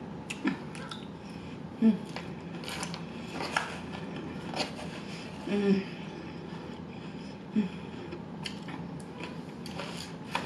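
Close-miked eating of crisp salad: crunching and mouth noises, with scattered clicks and scrapes of a fork in a foam takeout container and a few brief low hums.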